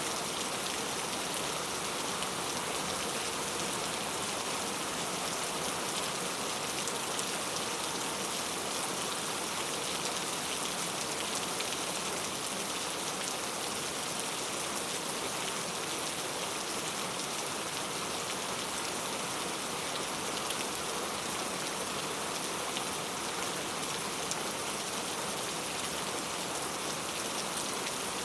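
Heavy rain falling steadily on street surfaces, a dense, even hiss of countless drops with no let-up.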